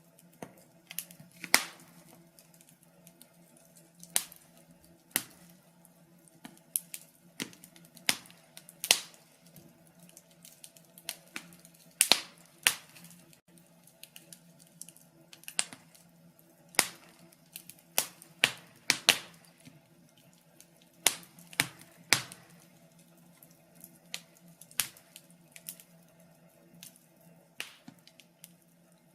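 Wood fire crackling: irregular sharp pops and snaps, sometimes in quick clusters, over a faint steady low hum.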